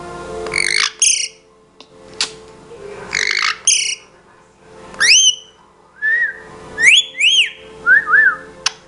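Pet talking bird giving two harsh squawks, then a series of short whistled notes that sweep upward in pitch, some in quick pairs near the end.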